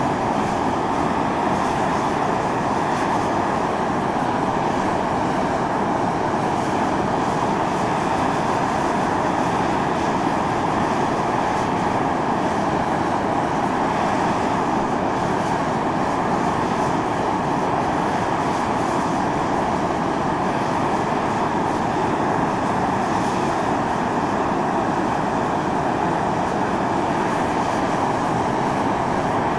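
Volcanic steam jetting from the fumarole vent of Mt. Io (Atosanupuri): a steady, unchanging rushing hiss.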